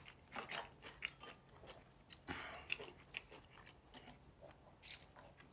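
Two people eating with chopsticks: faint, irregular chewing and mouth sounds with small clicks, a little louder about two and a half seconds in.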